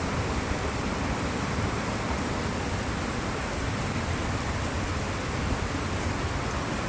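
Steady rush of a creek in flood, its high water running fast.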